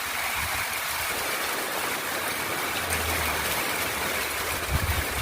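Heavy rain pouring steadily, drumming on an aluminum patio cover. A low rumble comes about three seconds in and again near the end.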